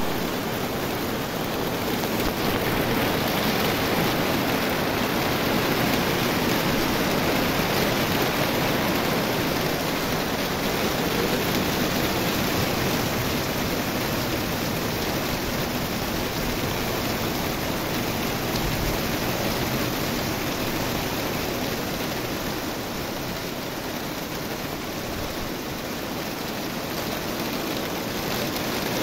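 Steady rain falling on garden foliage: a dense, even hiss.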